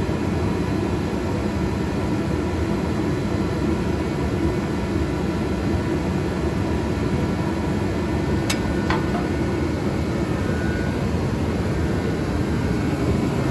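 A machine running steadily, a low even drone with faint high whines in it, and two light ticks about two-thirds of the way through.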